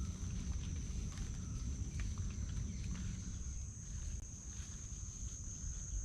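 Steady high-pitched insect drone, one unbroken tone, over a low rumble with scattered faint clicks.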